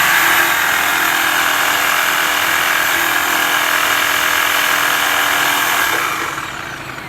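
Makita reciprocating saw running steadily, then winding down and stopping about six seconds in.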